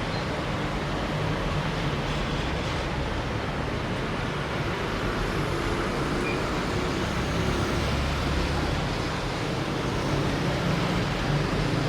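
Diesel freight train running steadily: a low, even engine drone under a wash of rolling noise.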